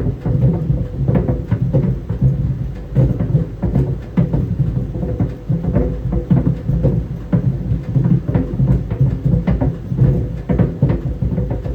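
Tennis balls tumbling in a running clothes dryer: irregular dull thumps and knocks against the drum, several a second, over the dryer's steady low hum.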